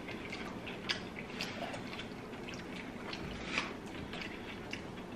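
Close-miked eating sounds: quiet chewing and wet mouth noises, with a few small sharp clicks.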